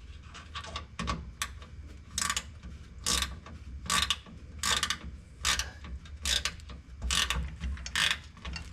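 Hand ratchet wrench clicking in a steady run of short strokes, about one every second, as a bolt is cranked in while it is held from the other end.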